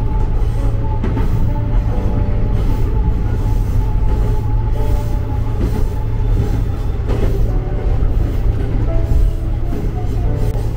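Tama Densha electric train running along the track, heard from inside the car: a steady low rumble of motors and wheels, with a simple melody of short held notes playing over it.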